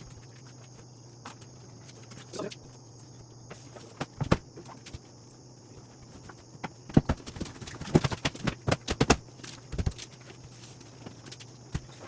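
Irregular knocks and clunks, a few early on and then a quick cluster a little past the middle, over a steady low hum and a faint high hiss.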